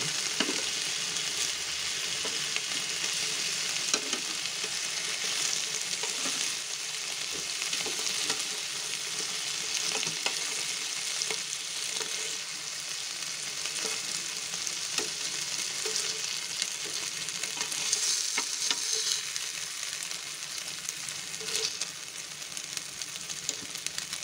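Mutton koftas sizzling steadily in hot oil in a nonstick grill pan as they finish frying, with scattered light clicks of metal tongs against the pan as they are lifted out.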